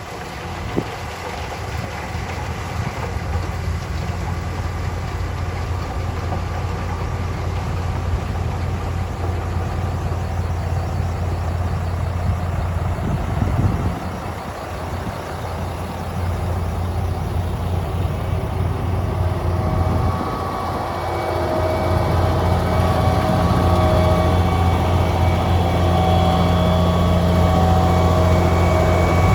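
Heavy diesel engine of snow-removal machinery running with a steady low hum that gets louder, dipping briefly twice, with a higher engine tone joining in about two-thirds of the way through.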